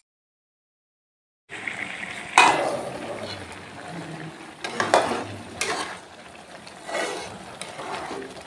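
After about a second and a half of silence, ground spice paste sizzles as it fries in a wok. A spatula stirs it, scraping against the pan in about four sharp strokes.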